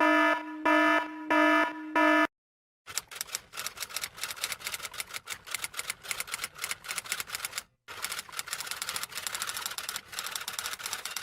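Four short electronic beeps in quick succession, then rapid, irregular clicking of keys being typed, with one brief pause partway through.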